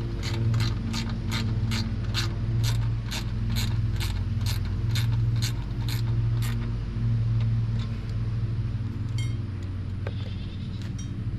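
Socket ratchet clicking steadily about twice a second, stopping about six and a half seconds in, with a few separate clicks later. A steady low hum runs underneath.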